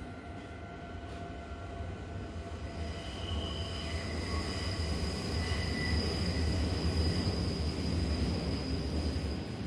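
Train running on rails: a steady low rumble that builds over the first half, with thin high-pitched wheel squeal joining about three seconds in and holding to the end.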